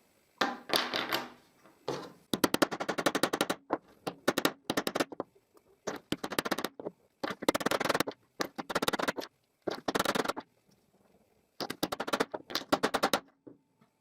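Repeated bursts of rapid clicking and knocking, metal on metal, as a tight-fitting metal pipe is forced into the bore of a ball bearing. Each burst lasts up to about a second, with short pauses between.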